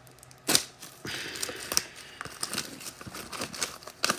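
Trading card pack being opened by hand. There is a sharp snap about half a second in, then the wrapper crinkles and tears irregularly.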